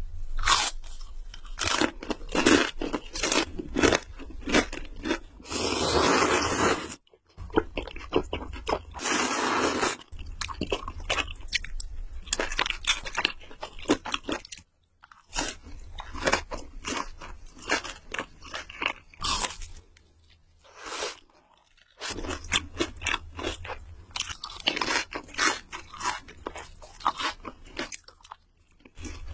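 Close-miked eating sounds: a run of crunchy bites and chewing, broken by two longer rushing stretches of about a second and a half around six and nine seconds in, and a few short pauses.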